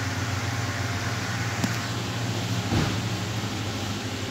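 Mitsubishi Pajero engine idling with a steady low drone, warming up so the new thermostat can be seen to open. A brief click comes about a second and a half in, and a short thump near the middle.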